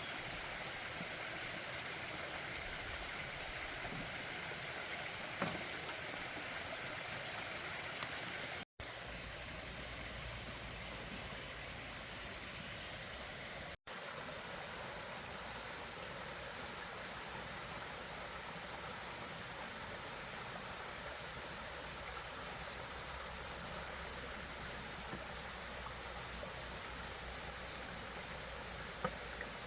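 Steady rushing noise with a thin, high, steady tone above it, a few faint clicks, and two very brief dropouts to silence.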